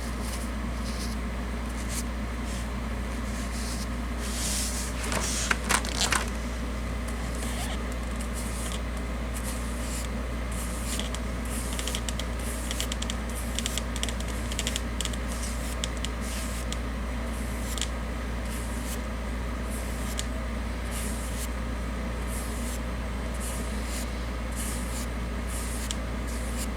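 Paintbrush bristles stroking paint onto a model's floor surface: many short, faint scratchy strokes, with a louder run of strokes about five to six seconds in, over a steady low hum.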